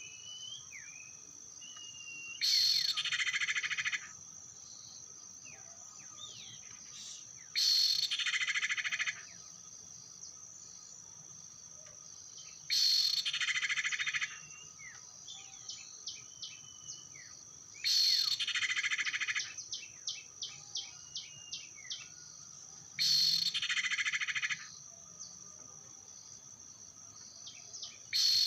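A harsh, buzzy bird call of about a second and a half, repeated at even intervals about every five seconds in the manner of a looped lure call for sirtu/cipow birds, over a steady high insect drone. Small bird chirps and a short run of quick ticks come in between the calls.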